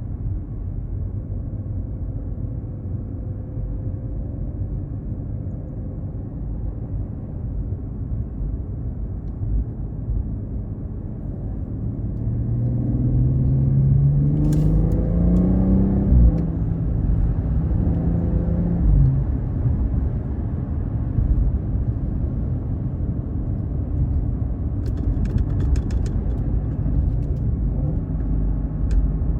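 BMW 540i's B58 turbocharged straight-six through an aftermarket ARP exhaust (downpipe, mid-pipe and rear section), driving with a steady low rumble. About halfway through it accelerates, the exhaust note climbing for a few seconds, holding briefly and then falling back; near the end it settles into a steady drone.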